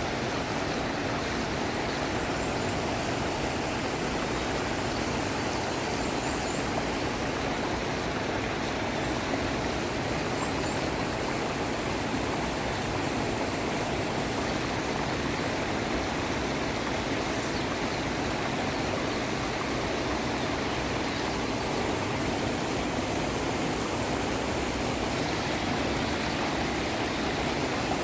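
Mountain valley stream running steadily over rocks: a continuous rushing of water.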